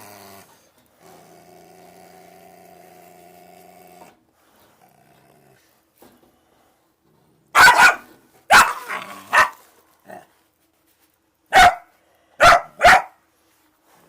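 An agitated, unsocialized dog growls low and steadily, then barks six sharp times in the second half.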